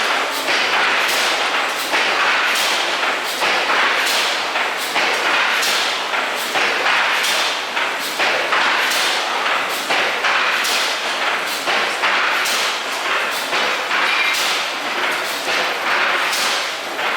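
Power looms weaving: a loud, even clatter with sharp clacks of the shuttle picks about twice a second.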